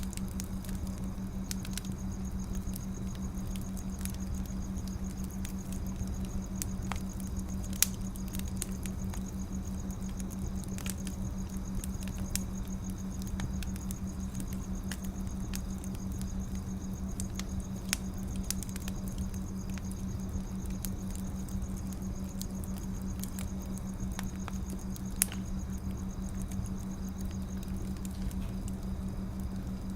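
Wood fire crackling, with irregular sharp clicks and a few louder pops, over a steady low hum.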